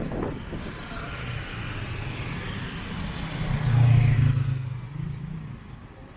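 Street traffic: a motor vehicle's engine running close by, swelling to its loudest about four seconds in as it passes, then fading away.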